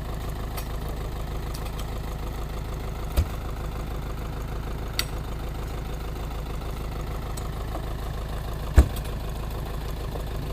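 Truck engine running steadily at a low, even rumble. Three short sharp knocks cut through it: one about 3 s in, a fainter one near 5 s, and the loudest near 9 s.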